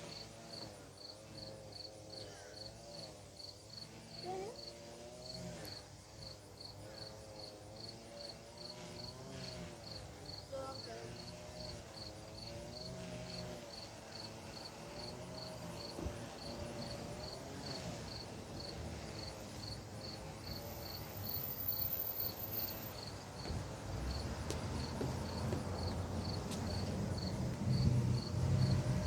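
Crickets chirping steadily, about two chirps a second. Over the last few seconds a low rumble builds beneath them.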